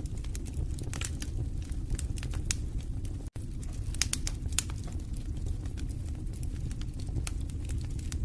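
Fireplace fire crackling, with irregular sharp pops and snaps over a steady low rumble of the flames. The sound cuts out for a moment a little over three seconds in.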